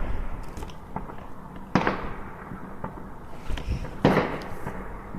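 Fireworks bursting: two loud bangs a little over two seconds apart, each trailing off, with fainter pops and crackles between them.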